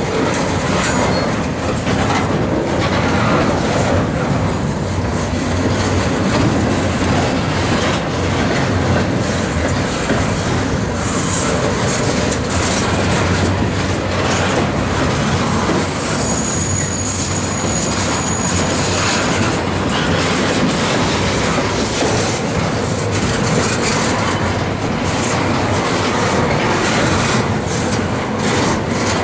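Freight train cars rolling past: steady wheel-on-rail noise with clickety-clack. High-pitched wheel squeal rings out for about three seconds around the middle.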